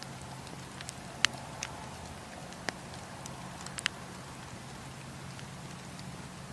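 Campfire with burning wood crackling: a handful of sharp pops, the loudest about a second in and a quick pair near four seconds, over a low steady rumble.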